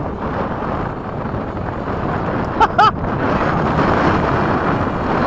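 Strong wind buffeting the microphone, a steady rushing noise. Two short, loud, pitched chirps break through about two and a half seconds in.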